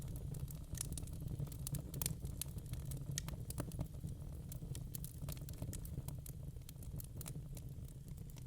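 Wood logs burning in a fireplace: irregular crackles and pops, several a second, over a steady low rumble of the fire. The sharpest pop comes about two seconds in.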